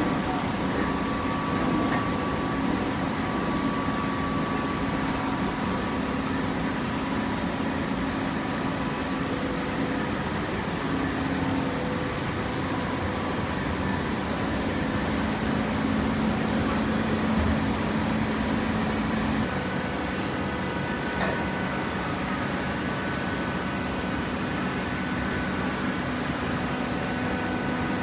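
Hydraulic baling press running: a steady machine hum with a few held tones, one of which changes pitch about two-thirds of the way through.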